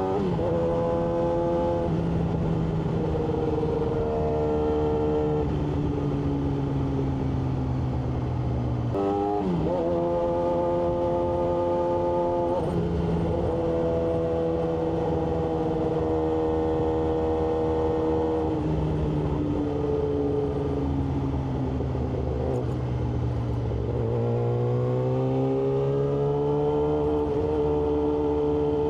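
Yamaha R6's inline-four engine running on the road, its pitch stepping up and down with throttle and gear changes. There is a quick drop and blip in revs about nine seconds in, and the revs climb again near the end.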